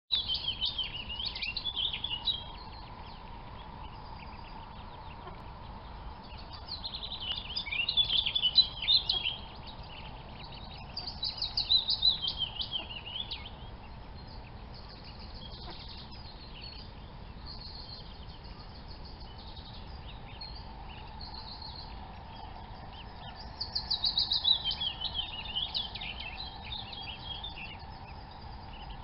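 Birds chirping in four bursts of rapid, high-pitched notes a few seconds each, over a steady background hiss.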